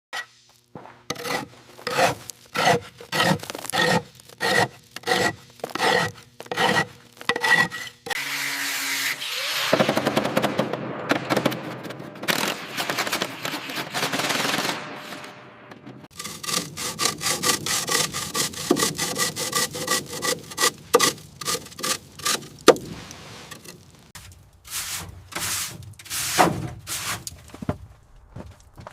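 Hand sawing: regular strokes, about two a second, with a ringing tone through them, then several seconds of continuous rasping, then faster strokes and a few irregular ones near the end.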